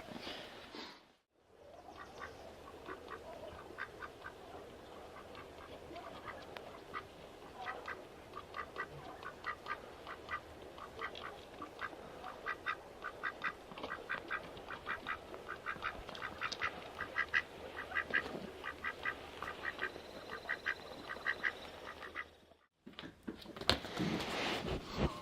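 Ducks quacking: a long run of short, rapid calls that gets busier through the middle.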